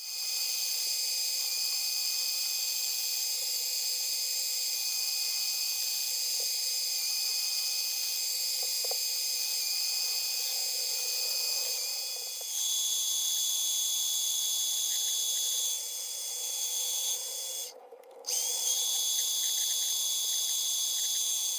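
Mini lathe running with a steady high-pitched motor whine. The pitch shifts once about halfway through, and the sound drops out for a moment near the end before running again.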